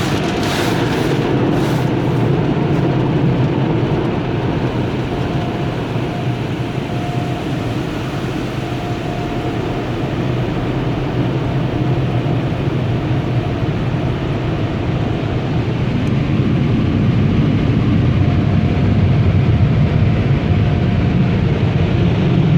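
Automatic tunnel car wash machinery working around a minivan, heard from inside the cabin as a steady, loud, rumbling rush that grows louder over the last several seconds.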